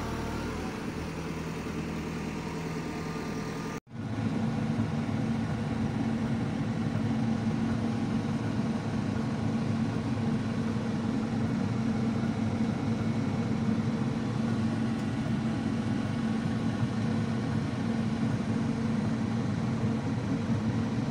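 Diesel engine of a JCB 3CX backhoe loader running steadily. About four seconds in the sound cuts out for an instant and comes back louder, with a steady low hum.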